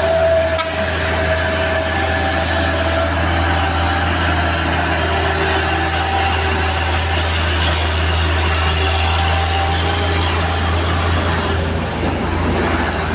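Heavy truck engine running steadily with a deep, even drone.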